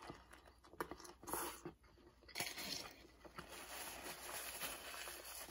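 Quiet close-miked eating: a bite into a soft-bun burger and a few soft chewing crunches. From about two and a half seconds in, a paper napkin rubs across the mouth with a steady papery rustle.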